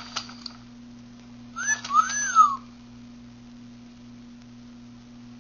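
Pet parrot whistling: a short rising whistle followed by one that rises and falls, about a second and a half in.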